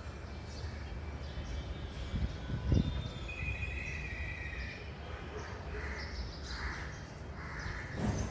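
Outdoor bird calls over a steady low background rumble: a thin whistled call about three seconds in and a series of short harsh calls near the end, with one dull thump just before the whistle.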